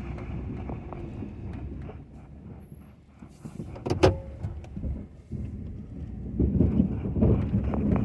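Pickup truck with a front-mounted snow plow running, a steady low rumble that grows louder and uneven near the end, with one sharp clank about four seconds in.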